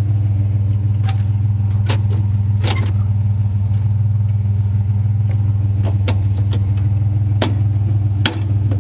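Truck engine running with a steady low drone, heard from inside the cab, with scattered sharp clicks and rattles.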